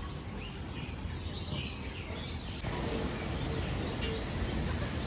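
Scattered short bird chirps over steady background noise and a low rumble. The background changes abruptly about two and a half seconds in.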